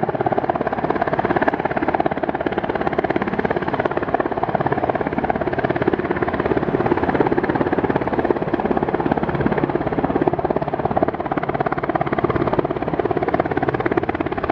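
Coast Guard helicopter hovering steadily while lowering a rescue basket on its hoist cable, its rotors beating in a fast, even chop.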